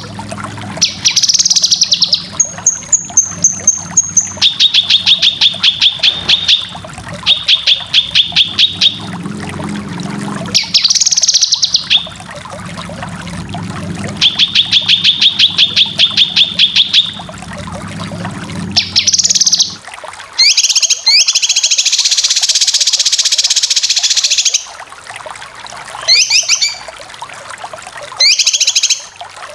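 Cucak kinoy song: bursts of fast, evenly repeated rattling notes (the 'besetan' trill) alternating with short sweeping whistled phrases, with a dense harsh chatter lasting a few seconds about two-thirds of the way through.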